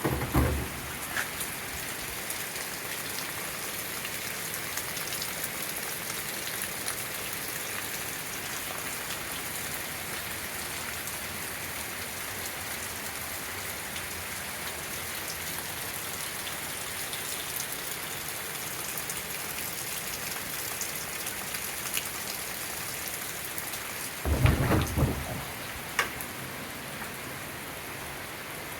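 Hard rain falling steadily, with two short low thumps, one at the very start and one about twenty-four seconds in.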